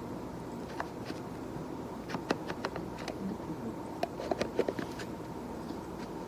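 Scattered light clicks and taps, a few at first and a quicker cluster about four seconds in, over a steady room hum with a faint steady tone.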